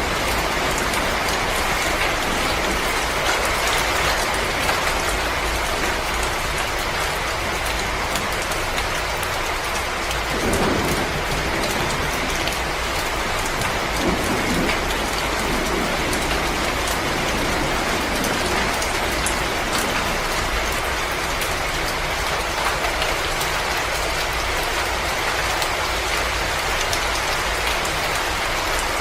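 Wood fire crackling in a fireplace: a dense, steady hiss of fine pops and snaps, with brief low swells about ten and fifteen seconds in.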